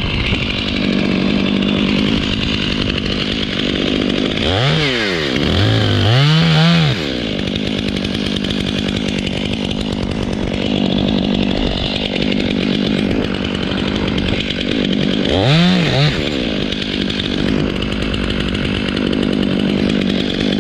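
Chainsaw running steadily, revved up and back down twice around five to seven seconds in and once more about fifteen seconds in.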